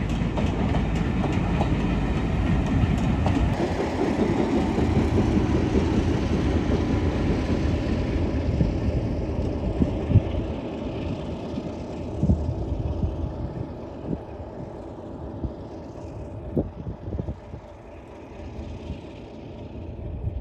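Heritage passenger train rolling past, its coaches' wheels rumbling and clicking over the rail joints. The sound grows fainter over the second half as the train draws away, with occasional knocks.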